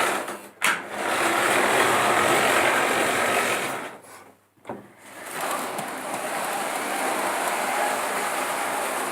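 Märklin model train running on its track: the small electric motor whirs and the wheels rattle along the rails. It drops out almost completely for about a second midway, then starts up again.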